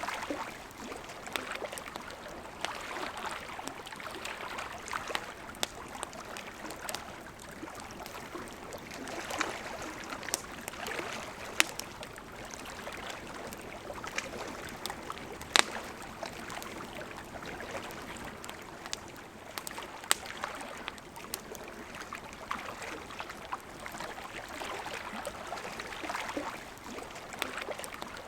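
Campfire crackling with sharp pops, over the steady rush of a flowing river. A few louder pops stand out, the loudest just past the middle.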